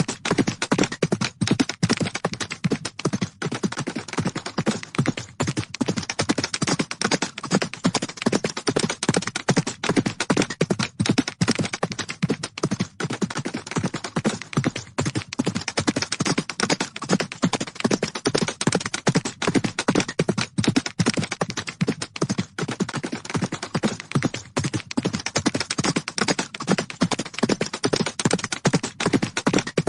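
Horses galloping: a rapid, continuous drumming of hoofbeats on the ground, with no pause.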